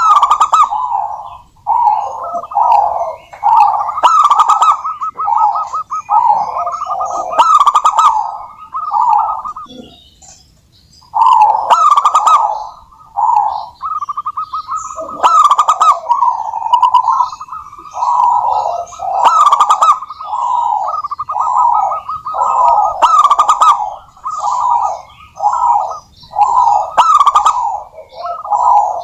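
Zebra doves (perkutut) cooing: rolling, staccato coo phrases repeated one after another with only short breaks, with faint higher chirps over them.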